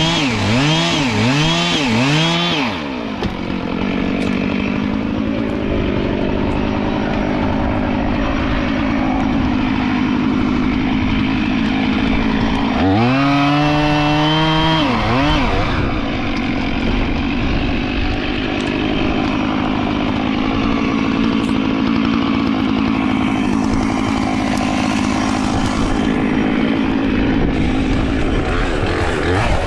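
Gasoline chainsaw revved in four quick blips, then running steadily at a lower pitch. About 13 seconds in it is revved up once more and eased back down, then runs steadily again.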